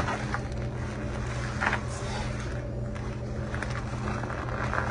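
A steady low mechanical hum, with a few soft rustles or clicks over it.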